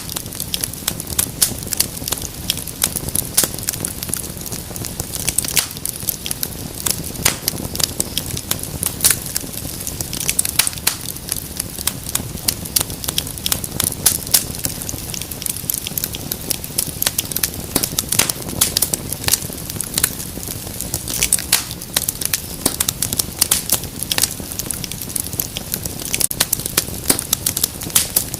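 Wood fire crackling in a fireplace: dense irregular pops and snaps over a low steady rumble of flame.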